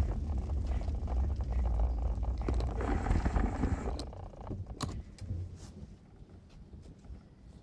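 Low rumble of a road vehicle that swells about three seconds in and fades away after about four seconds, with scattered clicks.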